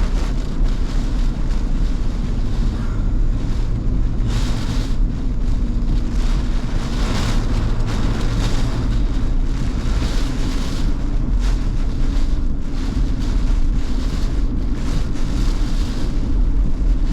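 Strong tornado winds buffeting the microphone in loud, gusty surges of wind noise.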